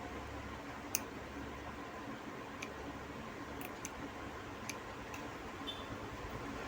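Scattered light clicks and taps, about half a dozen, the sharpest about a second in, as a new IPM module is handled and fitted into a fridge control circuit board. A steady low hum runs underneath.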